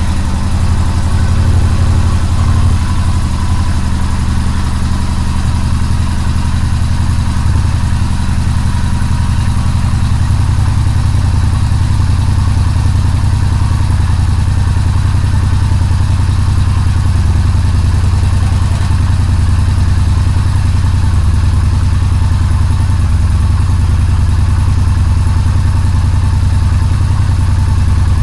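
2014 Yamaha Bolt's air-cooled V-twin idling steadily on a cold start, its first run after sitting all winter.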